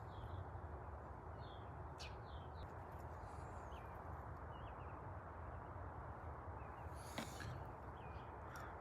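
Faint, scattered bird chirps over a steady outdoor background hum, with a couple of soft clicks.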